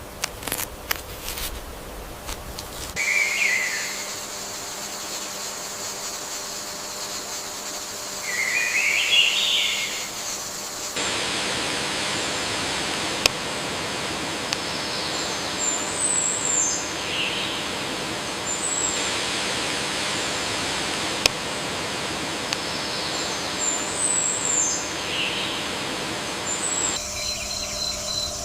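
Birds chirping in short, scattered calls over a steady outdoor background hiss, the ambience changing abruptly a few times.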